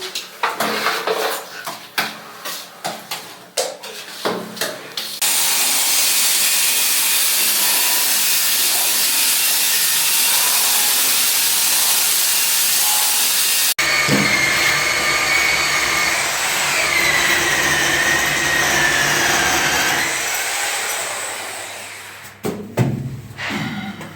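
A few seconds of knocking and clatter, then an electric machine runs with a steady loud noise. It breaks off suddenly and starts again with a whine that wavers in pitch, then dies away. A few knocks follow near the end.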